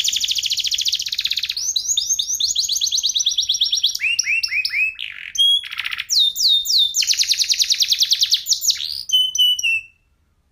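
Domestic canary singing a long song of fast rolling trills, each phrase a rapid run of repeated sweeping high notes, with a brief break about halfway through; the song stops near the end.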